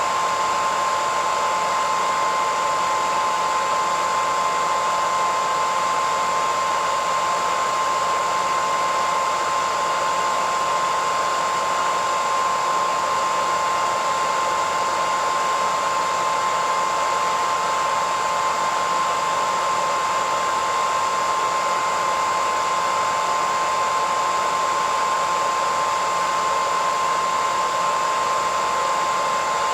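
Hairdryer running steadily: an even rush of air with a constant whine near the middle of the pitch range.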